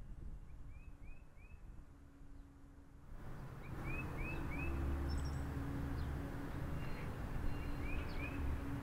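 A small songbird chirping: short high chirps in quick runs of two or three, repeated several times. Under it is a steady outdoor background rumble that grows louder about three seconds in.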